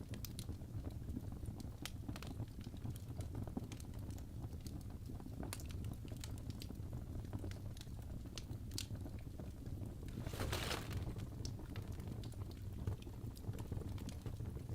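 Wood fire crackling: scattered sharp pops and snaps over a steady low rumble, with a brief hissing flare about ten seconds in.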